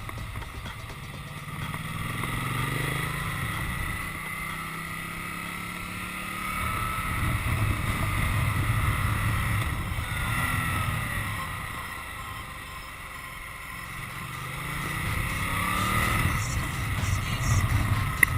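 Ducati Multistrada's V-twin engine under way, its pitch rising and falling several times as it pulls and eases off, with wind rush on the microphone.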